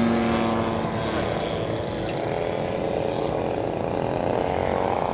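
Radio-control model airplane's engine and propeller droning as it flies. Its steady whine fades about a second in, leaving a rougher running noise.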